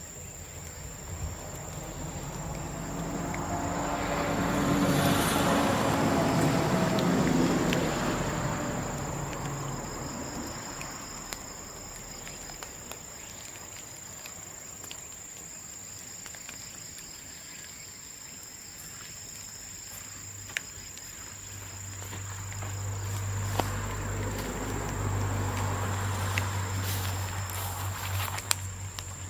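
Bamboo bonfire crackling with scattered sharp pops, under a steady high insect trill. Twice a vehicle passes, swelling and fading over several seconds, a few seconds in and again near the end; these passes are the loudest sound.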